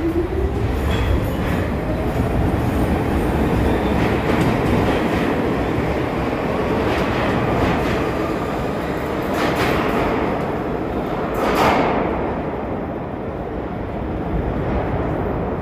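New York City subway train moving through an underground station. A motor whine climbs in pitch at the start as it gathers speed, over a steady wheel-and-rail rumble with scattered clacks over rail joints, the sharpest about eleven and a half seconds in.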